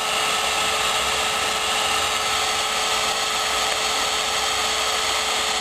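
Wagner hot air gun running steadily: an even rush of blown air with a thin, steady tone from its fan motor.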